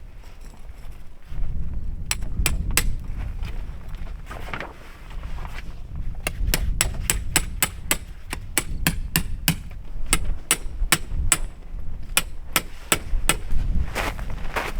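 Repeated sharp hammer strikes, irregular at about two to three a second, over a steady low rumble.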